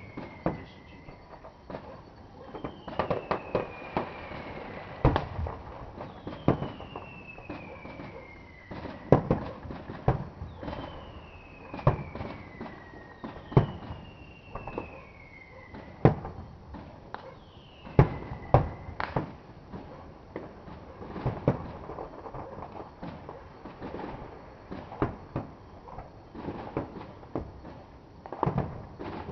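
Fireworks going off: a steady string of sharp bangs and crackles, some of them loud, throughout. A high whistle that falls in pitch is heard about six times in the first twenty seconds.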